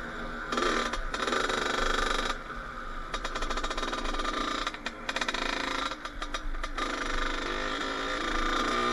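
Kawasaki KX80's two-stroke single-cylinder engine running as the dirt bike is ridden, its revs rising and falling with the throttle and easing off a couple of times.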